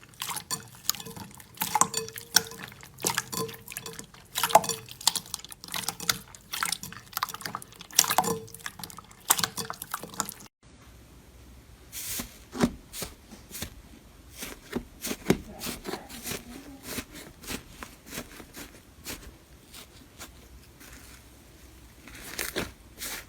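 Slime being squeezed and pressed, a dense run of wet clicks and pops; about ten seconds in, a cut leads to a sparser series of sticky pops.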